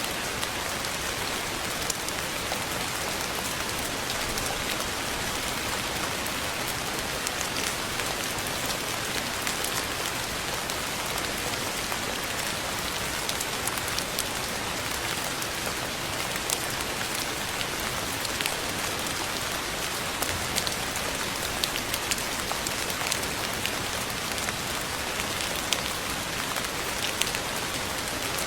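Steady rain falling on a surface, an even hiss with individual drops ticking out now and then, more of them in the second half.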